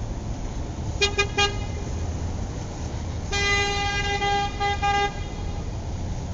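Vehicle horn tooting: three quick toots about a second in, then a long blast of nearly two seconds that breaks up briefly near its end, over a steady low rumble.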